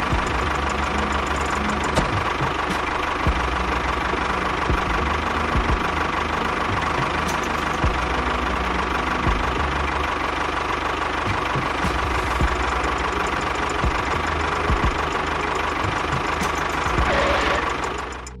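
Steady tractor-style engine running, a constant whine over a low rumble; it fades out near the end.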